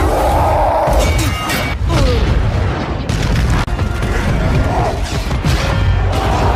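Action-film fight soundtrack: loud score over heavy booms and several crashing hits.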